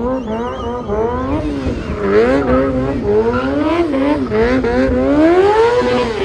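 Car engines revving, pitch repeatedly rising and falling in quick blips, with several engines overlapping over a low rumble.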